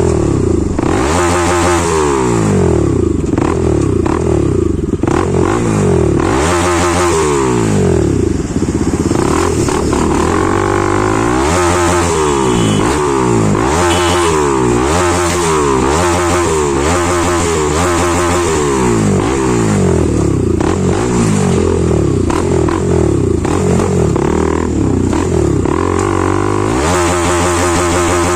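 Bajaj Pulsar NS200's single-cylinder engine through a modified aftermarket exhaust, loud and revved up and down again and again, each rev rising sharply and falling back.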